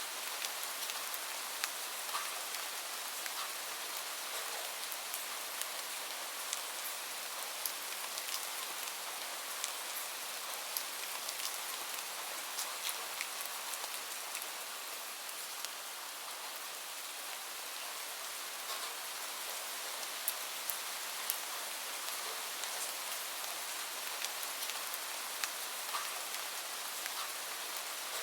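Steady rain falling, an even hiss with many scattered drops tapping sharply close by.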